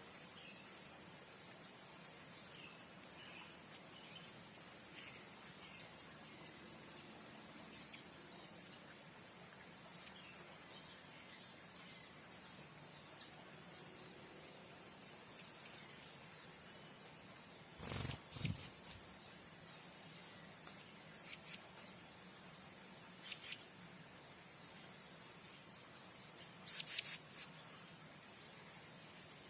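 Steady, rapidly pulsing high-pitched insect chorus, like crickets, with a few short sharp high chirps and clicks in the second half, the loudest near the end.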